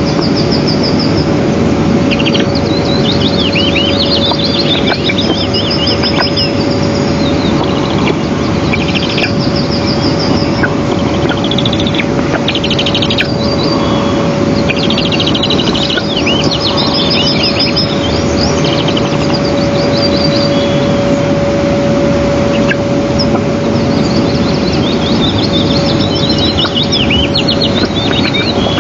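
High, repeated bird chirps and short trills come and go over a loud, steady rushing noise, with a constant hum underneath.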